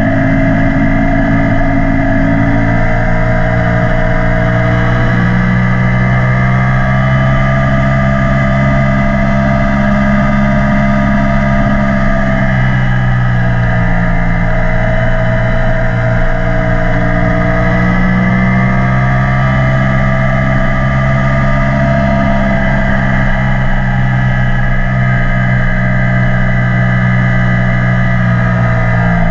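Yamaha YZF-R1 inline-four engine through an Akrapovic exhaust, running under way at fairly steady revs, the pitch rising and falling gently a few times.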